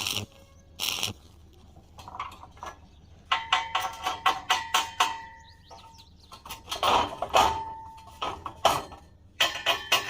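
Steel being struck with a hammer in irregular flurries, each blow leaving a short metallic ring at a fixed pitch, with quieter pauses between the flurries.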